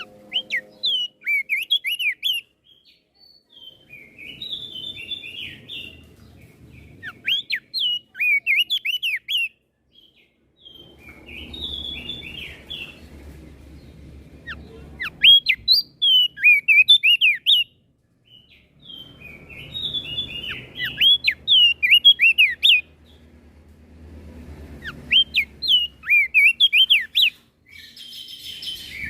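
Crested white-eye (opior jambul) singing: about seven bouts of quick, sharply bending whistled notes mixed with chattery notes, each bout a couple of seconds long with short pauses between.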